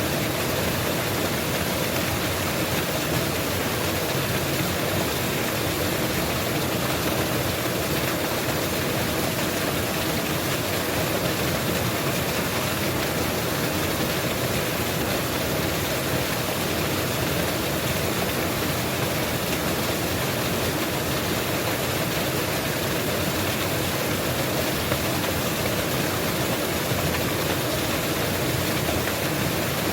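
Mountain waterfall rushing, a steady, even roar of falling water.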